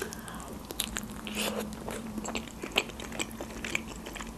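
A person biting into a Georgian khinkali dumpling and chewing it, giving a sharp click at the bite and then many short, irregular mouth clicks.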